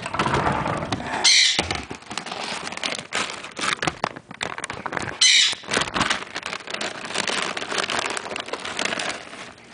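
Handling noise, rustling with many small knocks and clicks, broken twice by a short, loud pet conure squawk, about a second in and again about five seconds in.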